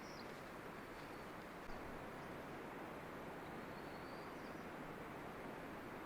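Steady outdoor background hiss with a few faint, high, short bird chirps, one just at the start and one about four seconds in.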